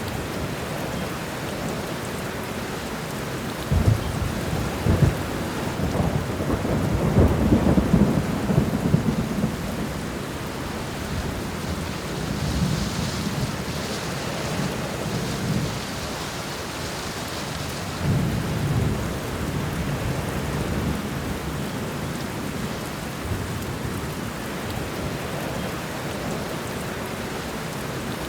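Thunderstorm: steady rain falling, with thunder rumbling in several rolls, the strongest with sharp cracks a few seconds in and a long rumble lasting several seconds.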